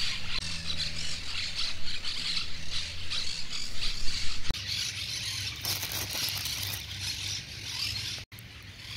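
Birds squawking and chattering in a rapid, irregular chorus, with a low steady hum underneath in the first half and a sharp click about four and a half seconds in.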